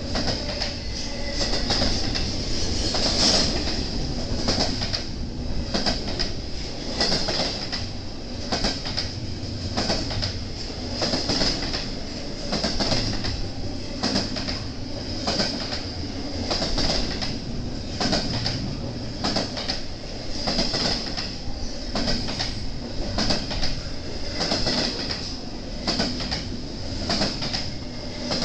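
A BNSF intermodal freight train's cars rolling past, their wheels clattering over rail joints in a regular repeating rhythm over a steady rumble, with a continuous high-pitched wheel squeal.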